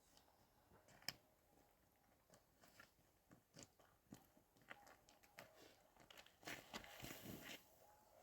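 Faint scattered clicks and crunching, thickening into a denser run of crackly crunches near the end.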